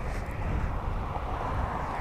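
Steady wind rush and low rumble on the microphone of a moving small motorcycle, with no clear engine note standing out.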